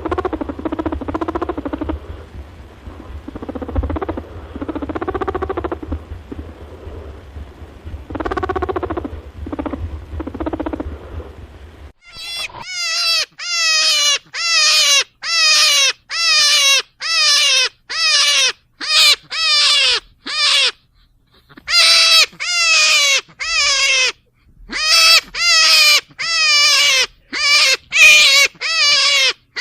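Animal calls from two different recordings: first a few muffled calls over a low hum, then, about twelve seconds in, a rapid run of short calls that drop in pitch, about two a second.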